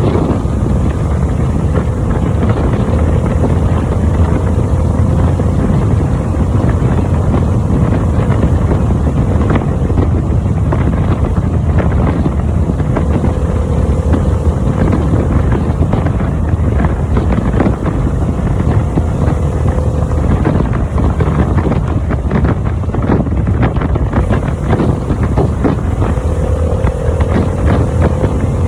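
Harley-Davidson V-twin motorcycle engine running steadily at riding speed, heavily mixed with wind buffeting the microphone.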